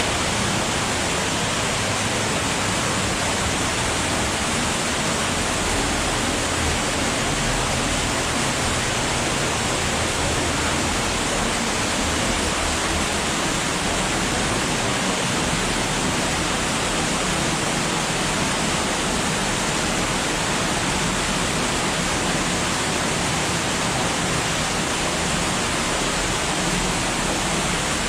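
Underground cave stream running high, a loud, steady rush of flowing water with no letup.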